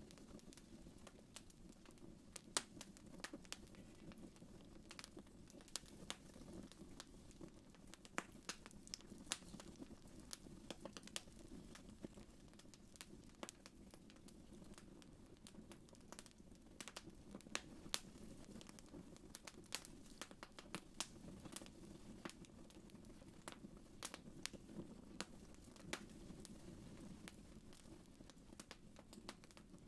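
Wood fire in a fireplace crackling faintly, with frequent irregular sharp pops over a low steady rumble.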